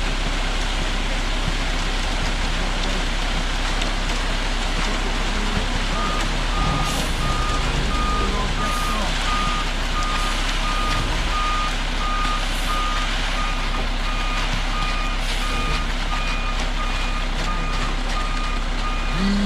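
Concrete truck's diesel engine running steadily. About six seconds in, its reversing alarm starts beeping in a steady repeating pattern.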